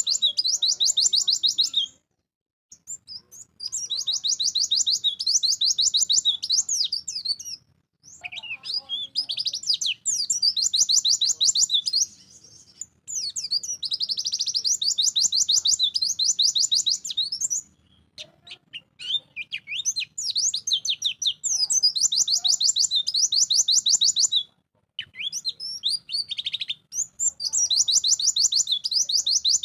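White-eye (pleci) singing in its full, vigorous song: about six long phrases of rapid, high-pitched trilling notes, each lasting a few seconds, with short breaks between them.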